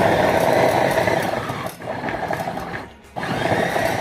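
Electric blender motor running in pulses as it chops garlic, onions, fresh mint and olive oil into a marinade paste. It dips briefly after a couple of seconds, cuts out about three seconds in, and starts again a moment later.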